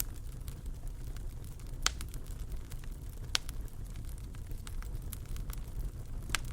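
Wood fire in a fireplace crackling over a steady low rumble of burning, with scattered small snaps and three sharper pops about two, three and a half, and six seconds in.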